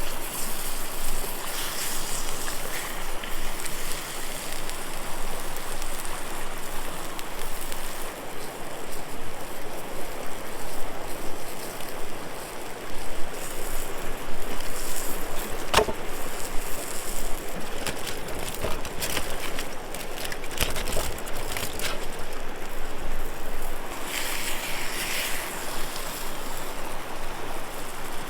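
River water rushing steadily, with a few sharp clicks in the middle, the loudest about halfway through.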